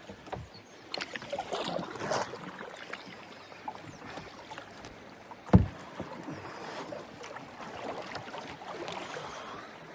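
Canoe paddle strokes, with water swishing and dripping off the blade. A single sharp knock about halfway through is the loudest sound.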